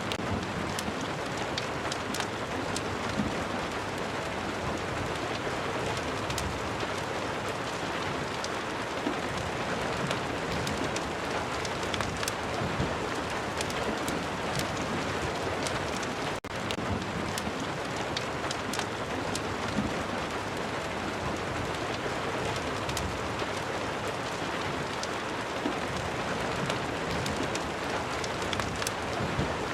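Steady rain ambience with many sharp little pops and ticks scattered through it, which fits the crackle of a fireplace mixed under the rain. The level drops for a moment about halfway through, like a seam in a looped track.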